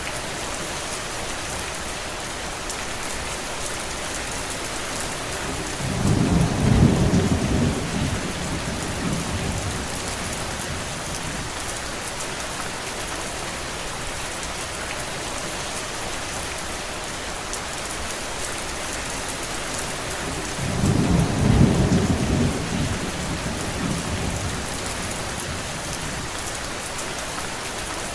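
Steady rain falling, with two low rumbles of distant thunder, each swelling and dying away over a few seconds, about six seconds in and again about twenty-one seconds in.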